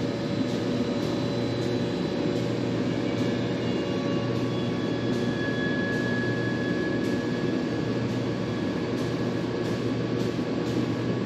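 Steady machine drone with a constant low electric hum, from paint-booth equipment running while the engine is sprayed with its third coat.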